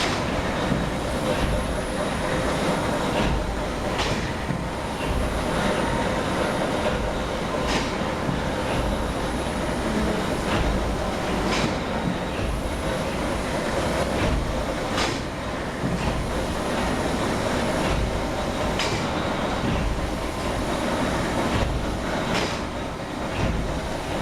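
Engine room of a steam whale catcher with its steam engine running: a loud, steady machinery din with a sharp stroke recurring about every four seconds and fainter ones in between.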